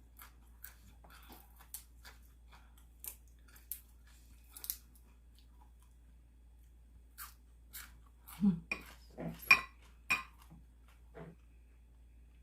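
Close-up eating sounds of a person eating a bowl of beef noodle soup: chewing with scattered small clicks and crunches, and a louder cluster of mouth and utensil sounds about eight to ten seconds in.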